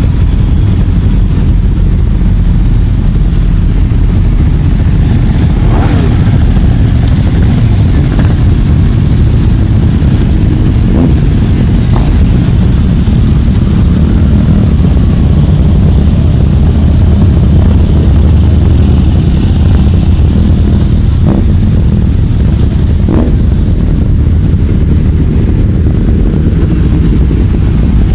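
A stream of motorcycles riding past, a constant loud engine rumble with several short revs rising and falling in pitch.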